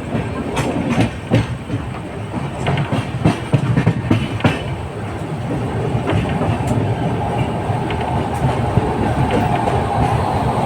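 Sampoorna Kranti Express passenger train running at speed, its wheels clattering over rail joints and points in irregular clicks above a steady rumble. The clatter is busiest in the first few seconds and gives way to a smoother, steadier run.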